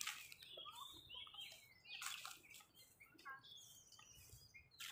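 Faint birds chirping in short notes that bend up and down, with a few soft knocks.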